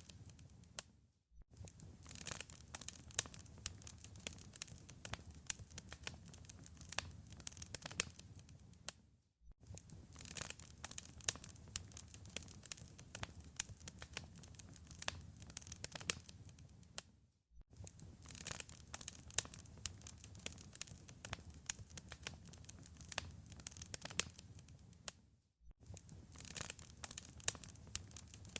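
Fireplace fire crackling steadily, with many sharp pops and snaps over a low rumble. The sound drops out for about half a second roughly every eight seconds.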